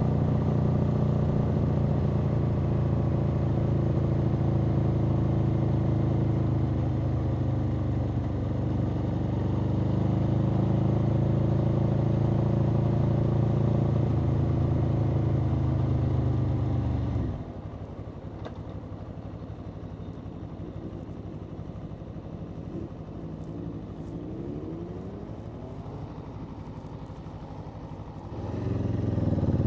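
Aprilia Tuono V4's V4 engine pulling at steady throttle on the move, then the throttle shuts about two-thirds of the way through and the engine falls to a much quieter off-throttle note with wavering pitch, before it opens up again near the end.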